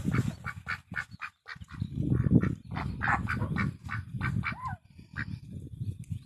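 Domestic ducks quacking, many short calls in quick succession and overlapping.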